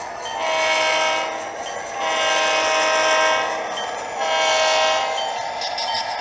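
Digital sound-decoder air horn of an HO-scale Athearn Genesis SD45-2 model locomotive, played through its two sugar-cube speakers. It gives three chord blasts, short, long and short, over the model's steady diesel engine sound.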